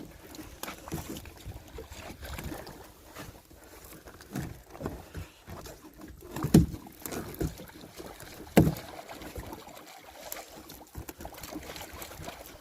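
Small boat on the water with scattered knocks and clunks of handling, and two loud thumps about two seconds apart near the middle.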